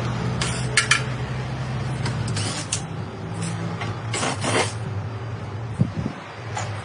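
Car-dismantling work: a machine's engine hums steadily, easing off about two and a half seconds in, while metal clanks and knocks sound now and then, with a longer rasping scrape near the middle.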